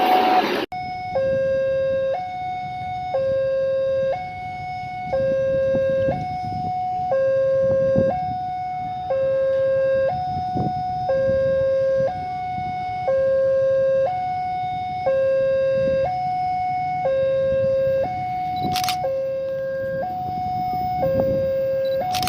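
Two-tone siren switching evenly between a high and a low note, each held for about a second and repeated over and over, with a low rumble underneath.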